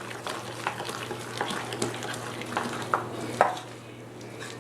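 Rava (semolina) and curd idli batter being stirred in a bowl just after Eno fruit salt is added, with irregular wet scrapes and clicks of the utensil against the bowl.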